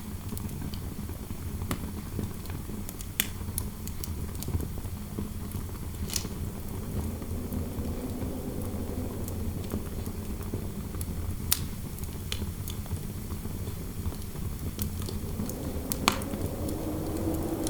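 Fireplace crackling with scattered sharp pops, about one every second or two, over a steady low rumble of wind in a room. A faint wavering wind howl grows a little louder near the end.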